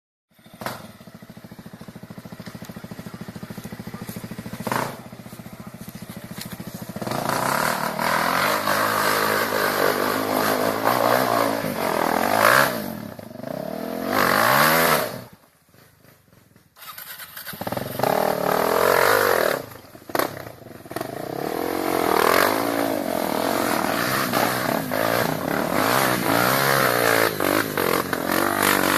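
Trail motorcycle engine running and being revved, its pitch rising and falling repeatedly, with a break of about a second near the middle.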